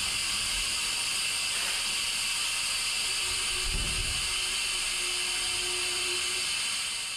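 Steady hissing and low rumble of a commuter train heard from inside the driver's cab while it runs, fading out near the end.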